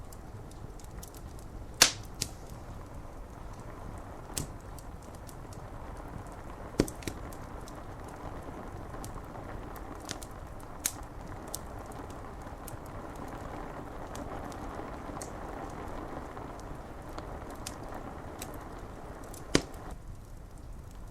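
Wood fire crackling, with sharp pops about two, seven and nineteen seconds in and lighter ticks between, over a steady hiss of rain on window glass.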